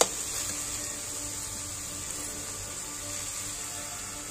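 Vegetables frying in oil in an iron kadai, a steady sizzle, with one sharp clack of the steel spatula against the pan at the very start.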